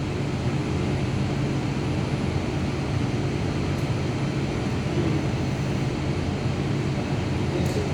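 Steady machinery drone with a low hum and an even rushing noise, unchanging throughout.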